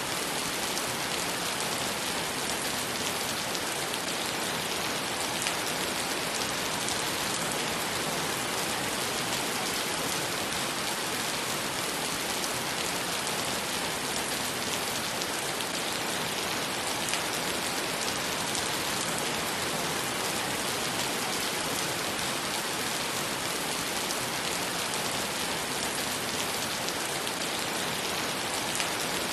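Heavy rain falling steadily on wet pavement and puddles: a dense, even hiss of many small drop impacts.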